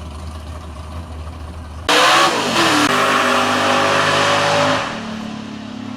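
Drag car engine idling low, then revved hard about two seconds in. It holds a loud, steady high note for about three seconds, then drops back to a lower steady run.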